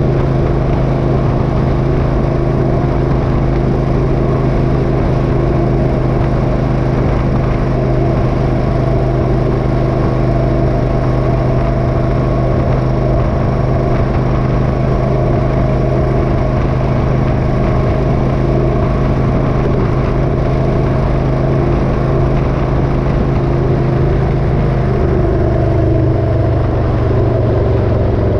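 Motorcycle engine running steadily at cruising speed, with wind and road noise. The engine note drops slightly near the end as it slows.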